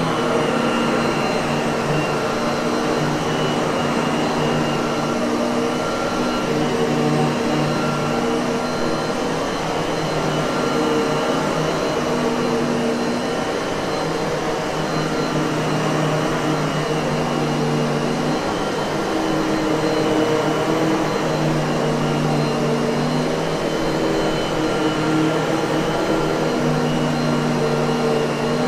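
Miele vacuum cleaner running continuously, a steady motor whir and airflow rush with a hum that shifts slightly in pitch every few seconds.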